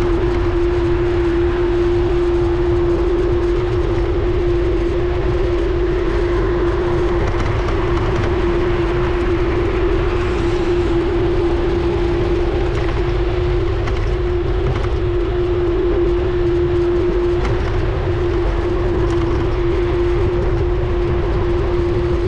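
Wind rumbling on a moving action camera's microphone during a bike ride, with a steady hum at one unchanging pitch throughout.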